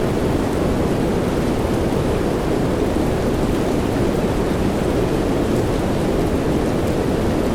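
Steady rain sound: an even, deep rushing hiss with no separate drops, thunder claps or changes.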